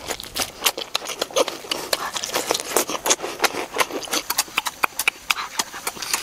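A person eating, chewing with loud wet lip-smacks and mouth clicks, several a second in an uneven run.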